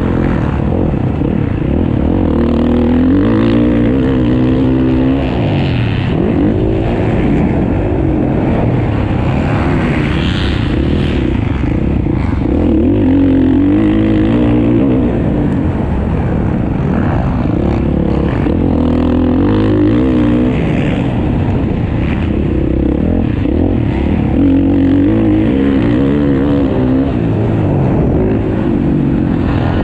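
Motocross bikes racing on a dirt track. The engines rev up and fall back again and again as the riders accelerate, shift and back off.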